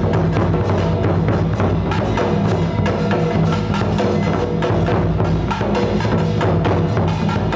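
Percussion-led music: rapid wood-block strikes and drums over sustained low tones, with no pauses.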